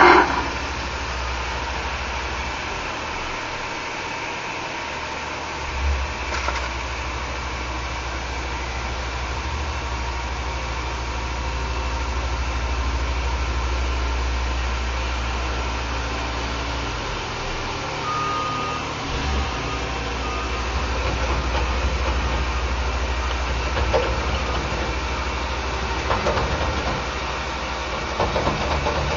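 Heavy engines of an asphalt paver and dump truck running steadily at low revs, the deep engine note shifting a couple of times. A few short knocks, and a brief run of faint high beeps about two-thirds of the way in.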